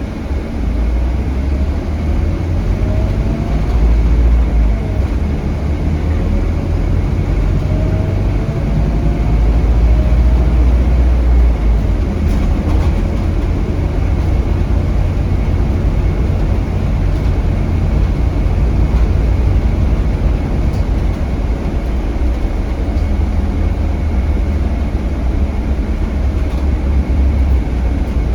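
Scania K320HB bus with its DC9 five-cylinder diesel running under way, heard from on board: a heavy low engine rumble with road noise. A few rising whines in the first half come as it pulls away, then it runs more evenly.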